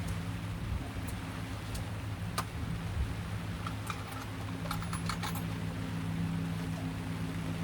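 A steady low motor hum under rain hiss, with a few light clicks and rattles, one about two seconds in and a quick cluster about five seconds in.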